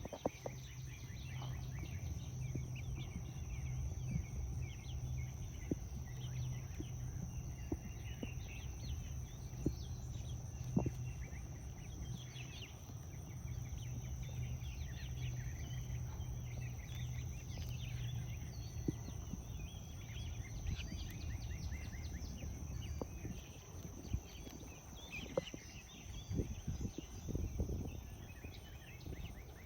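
Rabbit munching sunchoke (Jerusalem artichoke) leaves, with scattered soft crunching clicks that grow denser near the end. Birds call with short chirps throughout in the background. A low steady hum fades out about two-thirds of the way through.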